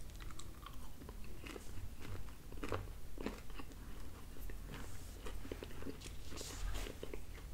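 A person chewing a mouthful of pizza close to the microphone, with many small wet mouth clicks. A fork and knife scrape and tap while cutting the next piece on a paper plate.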